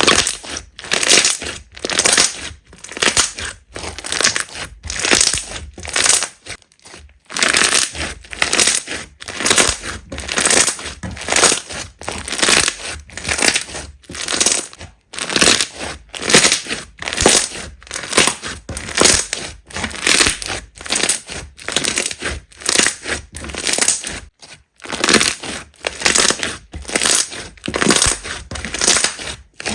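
Slime being squeezed and pressed by hand in a steady rhythm, each press a crackling, crunching squish, about one and a half a second, with brief pauses twice.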